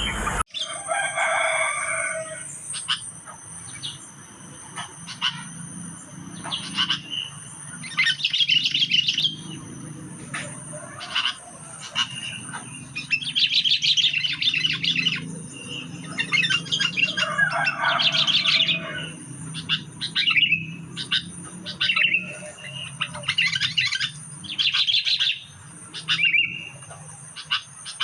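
Sooty-headed bulbuls calling: loud bursts of fast, chattering trilled calls repeated every two to three seconds, as used in a lure recording to draw in wild kutilang. A faint steady high tone runs underneath.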